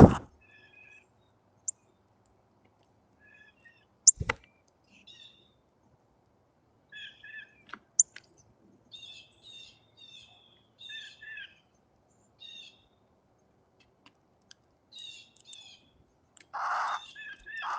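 Baby bird chirping in short, scattered bursts of high calls. There are two sharp knocks, one at the start and one about four seconds in, and a louder, harsher burst of sound near the end.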